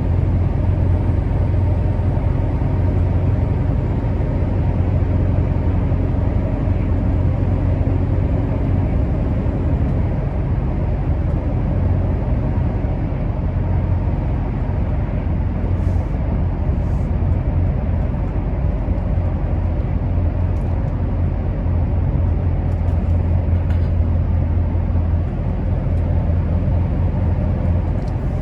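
Scania R650's V8 diesel engine running steadily as the truck drives, a deep even drone.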